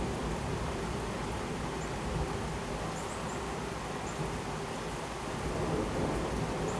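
Heavy rain pouring steadily in a severe thunderstorm, with a low rumble of thunder underneath and no sharp crack.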